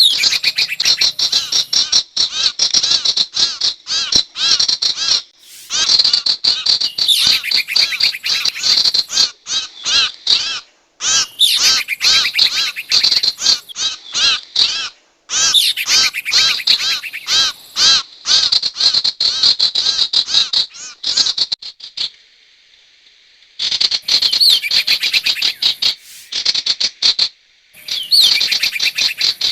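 Lure-call recording of the sirtu bird: fast trains of sharp, high chirping notes, many a second, in runs of a few seconds with brief breaks between them. A longer pause about two-thirds of the way through holds only a faint hiss.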